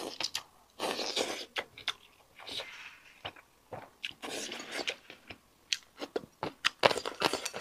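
Close-miked mouth sounds of a person eating braised fish roe with rice: chewing, wet smacks and lip clicks in irregular bursts with short pauses between bites.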